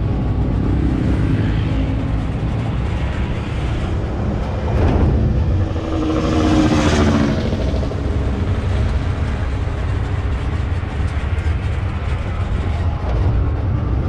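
Steady low rumble and wind noise of riding in an open tram car. A louder vehicle passes about five seconds in, swelling and fading over a couple of seconds.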